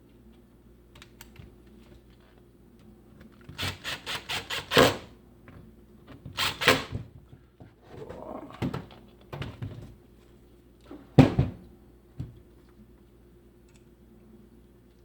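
Clicks and knocks of hand work on a disassembled reciprocating saw: a quick run of about six clicks, another cluster a couple of seconds later, then a single loud knock.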